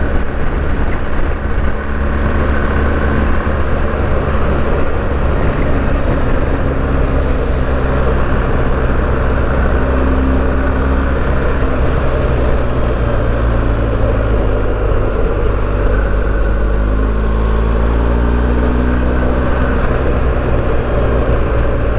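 BMW R1250GS boxer-twin engine running at a steady cruise under a heavy, constant rush of wind and road noise. The engine note drifts gently up and down.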